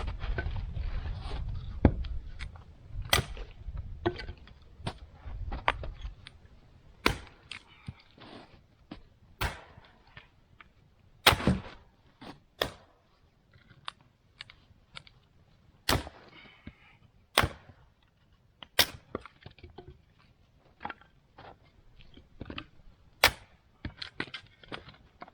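Sharp cracks and knocks of wood at irregular intervals, roughly one every second or two, with a low rustling rumble underneath for the first six seconds or so.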